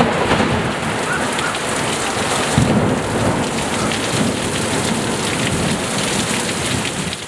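Heavy rain pouring steadily onto trees and roofs, with a low rumble of thunder about two and a half seconds in.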